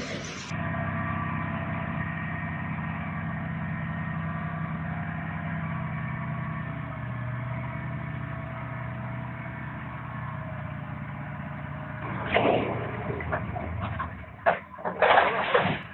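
A vehicle engine running steadily, followed in the last few seconds by several loud bursts of noise and sharp knocks.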